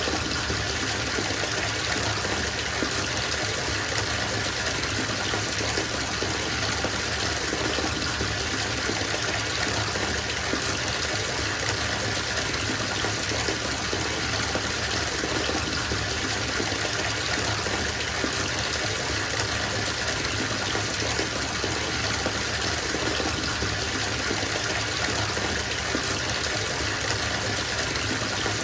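Bathtub filling from a running tap: a steady, even gush of water pouring into the tub.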